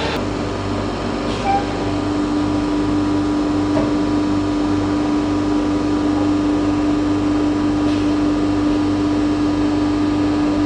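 CNC router machining wardrobe panels: a steady machine noise with a strong, even spindle tone that sets in about a second in and holds.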